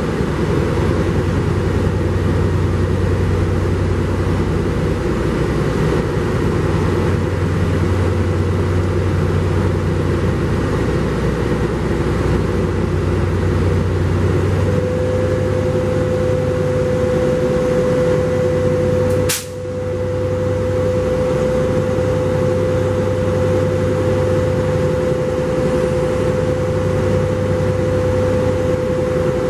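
NJ Transit push-pull commuter train running slowly away over curved yard track, a steady low engine drone under wheel noise. About halfway a steady mid-pitched tone joins in and holds, and about two-thirds through there is one sharp click with a brief dip in level.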